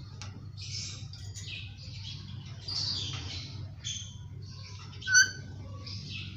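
Indian ringneck parakeet making a string of soft, short chattering and chirping sounds, with one brief louder squawk about five seconds in.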